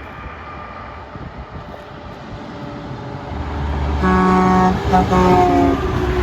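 A truck approaching with its engine rumble building, then its horn blowing about four seconds in: a long blast, a brief break, and a second blast that sags slightly in pitch before cutting off.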